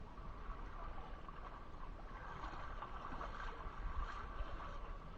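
Jet ski engine running at a distance, a steady drone, over water and wind noise.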